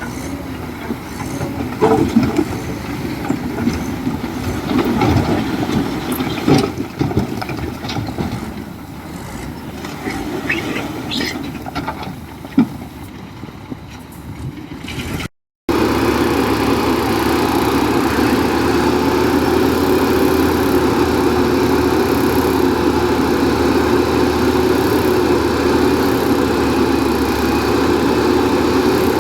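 Heavy diesel machinery working, with uneven engine sound and scattered clanks and knocks in the first half. After a brief break about halfway through, an engine runs steadily at a constant pitch.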